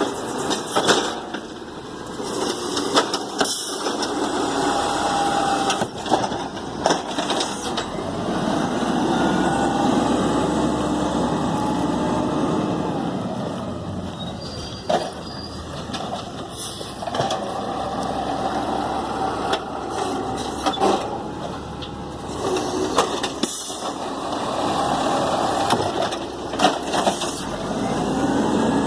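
Garbage truck's diesel engine running and revving up and down in long swells as it works its hydraulics, with repeated sharp clanks and bangs of metal and cans.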